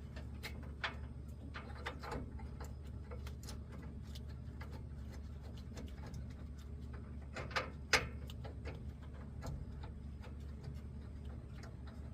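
Irregular light clicks and taps from hand work on metal and plastic parts, with a sharper pair of clicks about eight seconds in, over a faint steady low hum.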